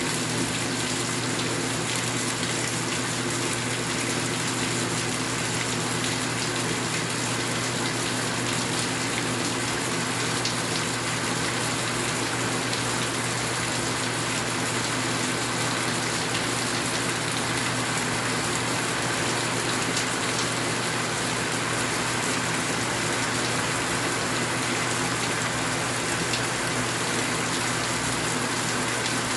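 Steady rain falling, an even hiss with scattered drop ticks that keeps the same level throughout.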